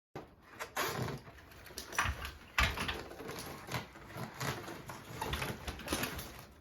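Irregular knocks, clicks and light clatter of hands-on installation work, handling metal parts and tools, starting abruptly.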